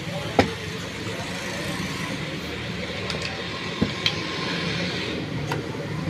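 Steady background hum and noise, with a few sharp clicks or taps; the loudest comes about half a second in, and others fall near the middle and end.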